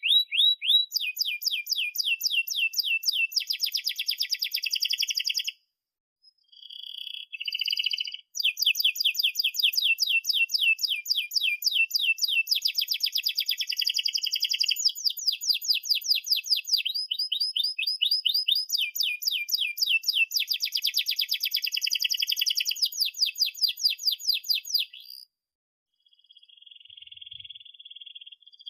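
Domestic canary singing long rolling phrases, runs of fast repeated chirps and trills, broken by two short pauses.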